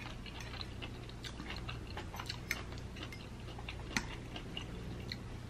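Close-miked chewing of crab-stuffed salmon with scattered small mouth clicks, and a fork clicking on a plate, sharpest about two and a half and four seconds in.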